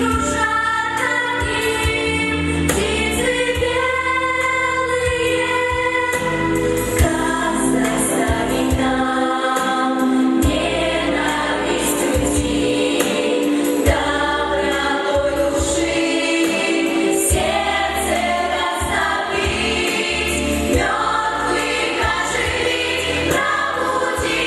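A vocal ensemble sings in chorus, holding melody lines over an instrumental accompaniment with a low bass line.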